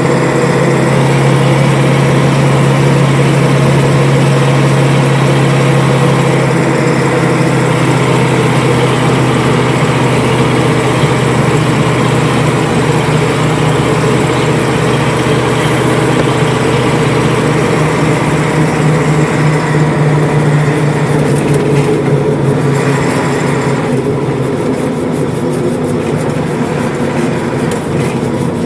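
Fire engine's engine running steady while driving, with road noise, heard from inside the cab. The engine note shifts slightly twice as the speed changes.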